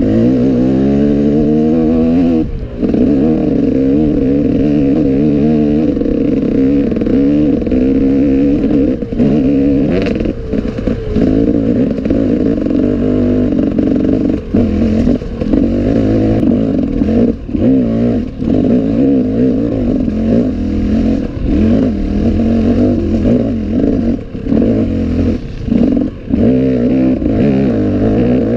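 Enduro motorcycle engine running hard off-road, its pitch rising and falling as the throttle is worked, with brief drops when the throttle is closed, plus some clatter.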